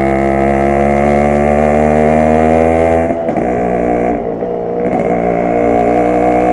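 Yamaha RX 100's air-cooled two-stroke single-cylinder engine and exhaust under way, the note rising slowly under throttle. About three seconds in the note breaks up and drops off for a couple of seconds, then the engine pulls steadily again.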